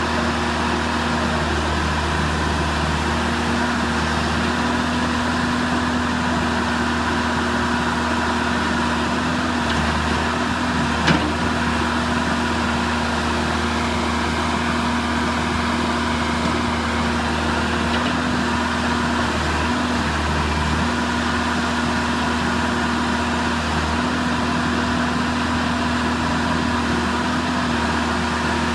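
John Deere 310G backhoe's diesel engine idling steadily, with one sharp click about eleven seconds in.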